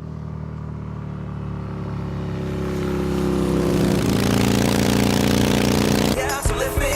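Motorcycle engine running and drawing closer, growing louder over about four seconds with its pitch rising slightly, then cut off suddenly near the end.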